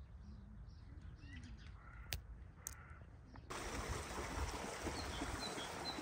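Outdoor ambience with a few short bird chirps and a couple of sharp clicks over a quiet background. About three and a half seconds in it cuts to a louder, steady rushing noise, with more brief chirps.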